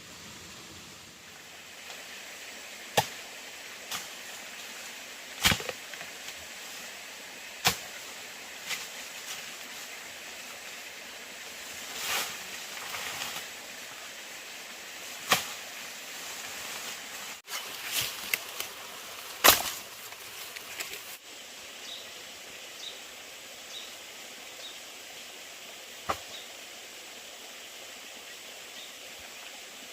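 Irregular sharp knocks, about seven of them a few seconds apart, over a steady outdoor hiss, with some rustling in between.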